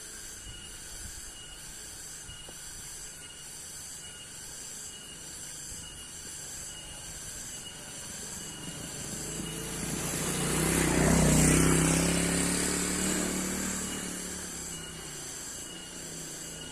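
Insects chirping in a steady chorus with regular pulses. About two-thirds of the way in, a motor vehicle passes, swelling to the loudest point and fading out over a few seconds with a slight drop in pitch.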